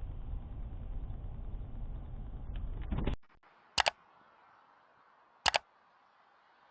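Steady low rumble of a car driving, which cuts off about three seconds in. After it, a quiet stretch broken twice by a sharp double click.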